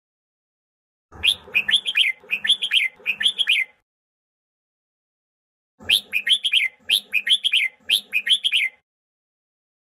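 Red-whiskered bulbul singing its fighting song: two phrases, each about three seconds of quick, rising-and-falling whistled notes, with a few seconds of silence between them.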